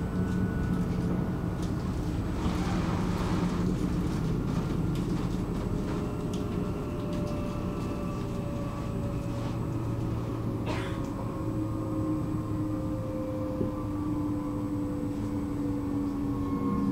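Electric commuter train running on rails: a steady rumble with a motor whine that falls slowly in pitch as the train eases off, and a single sharp click about eleven seconds in.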